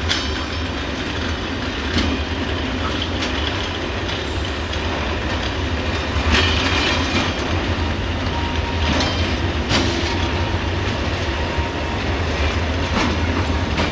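Freight train's hopper wagons rolling slowly past, a steady low rumble with wheels clicking over rail joints every few seconds and a faint wheel squeal.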